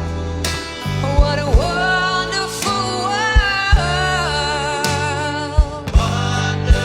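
A woman singing a slow soul-blues song with a live band: bass, guitar and a kick drum keeping a steady beat. The singing comes in about a second in and pauses near five seconds.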